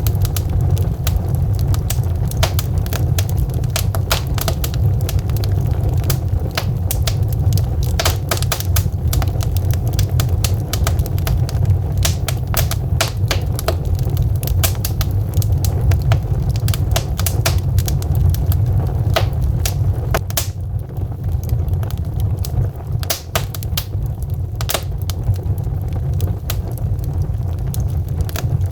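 Wood fire burning in a fireplace: frequent irregular sharp crackles and pops from the burning logs over a steady low rumble of the flames.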